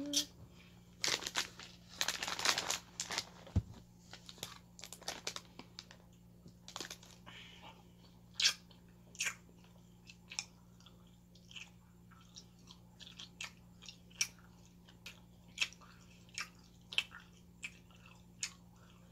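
A person chewing food close to the microphone, with mouth clicks, smacks and crunches. They come at irregular intervals, about one or two a second, after a denser spell of crunching about one to three seconds in.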